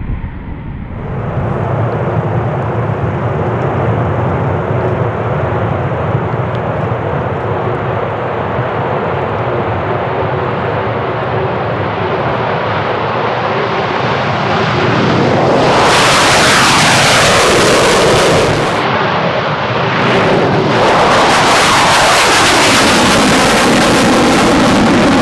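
Two Eurofighter Typhoon fighter jets, each with twin EJ200 turbofans, taking off one after the other. A steady loud jet rumble builds, then one jet passes loudly about fifteen seconds in, and a second passes about five seconds later.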